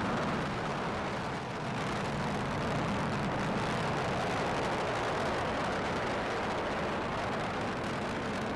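Delta IV Heavy rocket's three RS-68A engines firing just after liftoff, a steady, even rushing noise with no distinct strokes.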